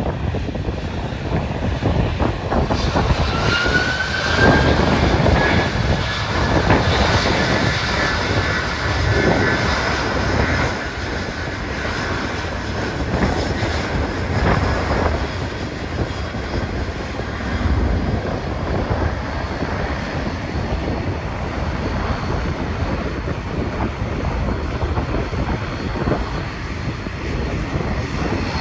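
Jet aircraft engines running, with a whine that rises about three seconds in and a steady high whine after, under heavy wind buffeting on the microphone.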